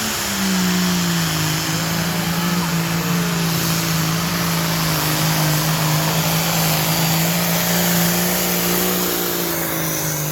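A pulling vehicle's engine running hard under heavy load during a sled pull, its pitch dropping a notch just after the start and then holding steady, with a loud exhaust roar.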